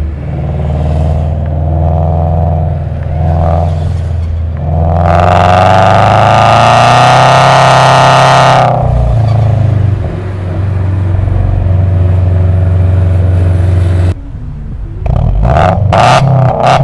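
Naturally aspirated Subaru flat-four with unequal-length headers and a full aftermarket exhaust, running on the move: it pulls hard under throttle for about four seconds, then eases back to a steady cruise. Near the end the sound cuts away abruptly to a series of short sharp bursts.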